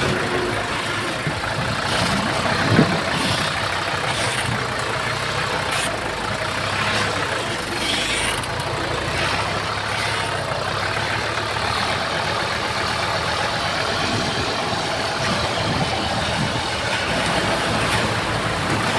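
Diesel engine of heavy earthmoving machinery running steadily, with scattered knocks and clanks and one louder thump about three seconds in.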